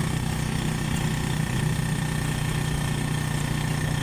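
Motorcycle engine of a tricycle running steadily as it drives along, heard from inside its sidecar.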